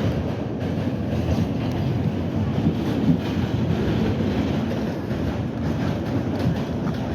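R68 subway train running along the track, a steady rumble of wheels on rail.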